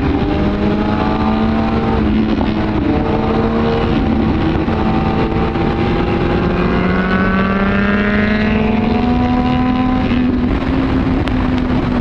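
Superbike engine at highway speed, its pitch climbing slowly as it pulls hard in gear and levelling off near the end, over a steady rush of wind.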